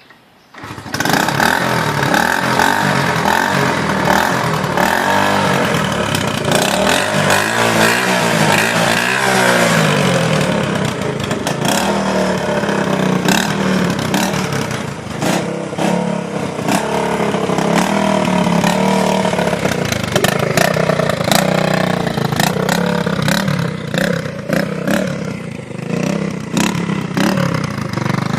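1973 Honda SL70's small single-cylinder four-stroke engine catching on the kick-start about a second in, cold and on a little choke, then running and being revved, the pitch rising and falling over and over before settling into a steadier run.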